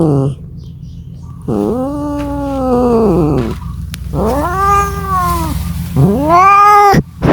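Domestic cat yowling: three drawn-out meows, each rising and then falling in pitch, with a short call starting near the end.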